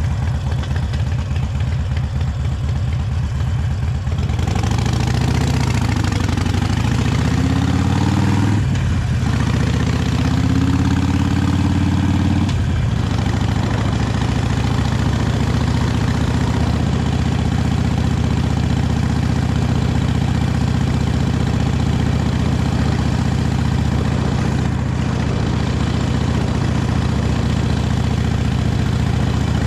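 Harley-Davidson 883 Iron's air-cooled 883 cc V-twin on its original exhaust, running at low revs for about four seconds. It then pulls up in pitch, drops back with a gear change near nine seconds, rises again and shifts once more a few seconds later, then settles into a steady cruise.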